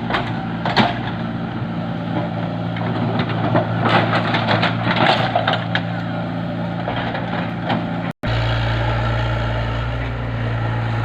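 An engine running steadily, with scattered knocks and clicks. The sound cuts out for an instant about eight seconds in, and a steadier, lower engine hum follows.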